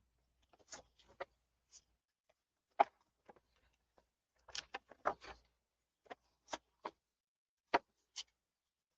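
Paper pages of a handmade journal being turned and handled: a scattering of short, soft rustles and taps. The loudest comes about three seconds in, with a small cluster of them around five seconds.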